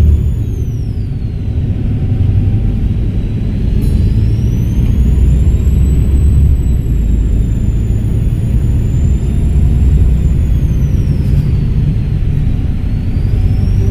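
Volvo B7RLE bus's turbodiesel engine running under a low rumble, with a high-pitched turbo whistle. The whistle falls away just after the start, rises again about four seconds in and holds, then dies away about eleven seconds in before climbing again near the end.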